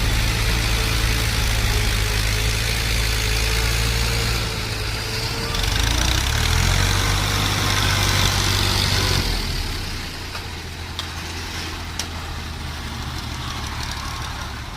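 Farm tractor diesel engine running steadily; its pitch steps up about six seconds in, then the sound falls quieter a little after nine seconds in.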